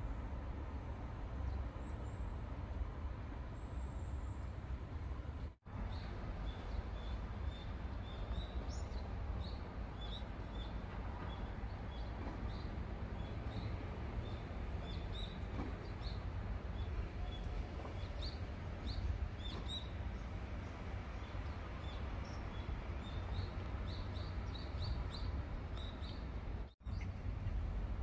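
Small birds chirping in short, repeated high notes, in scattered runs, over a steady low rumble of city background noise.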